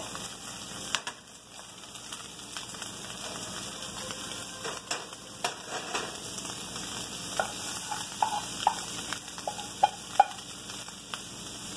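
Chicken pieces sizzling steadily in a frying pan, with scattered clicks and knocks of a spatula and plate against the pan, several of them close together in the second half.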